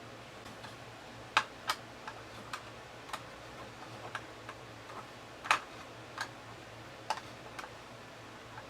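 Irregular sharp clicks and taps, about a dozen spread over several seconds, the loudest about a second and a half in and again about five and a half seconds in: small hand tools and metal hardware being handled while wiring distribution blocks to a boat switch panel. A faint steady low hum sits underneath.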